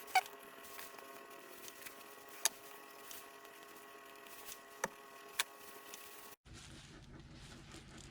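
A few light, sharp clicks of small pump valve parts being handled over a faint steady hum. The background hum changes suddenly about six and a half seconds in.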